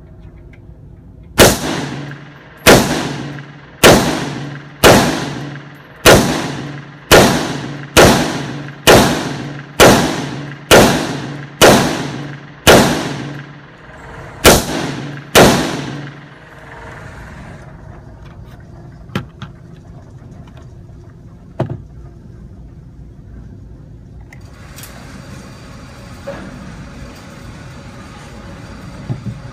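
Fourteen gunshots fired in slow succession, about one a second, with a brief pause before the last two; two much fainter sharp cracks follow a few seconds later.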